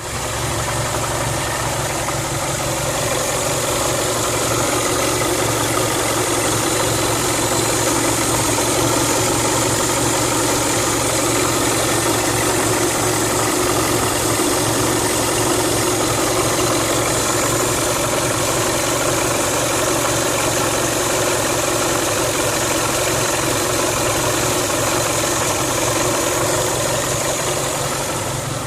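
Toyota 3S-GE BEAMS four-cylinder engine idling steadily, recorded for the extraneous noises its owner hears from it.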